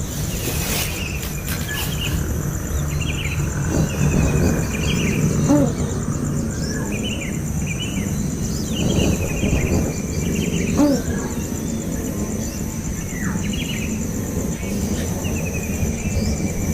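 Short bird chirps repeating every second or so, over a steady high insect trill and a low rumble.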